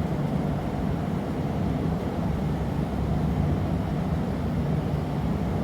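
Steady low roar of a glassblowing workshop's gas-fired furnaces and ventilation, with a faint even hum underneath and no change throughout.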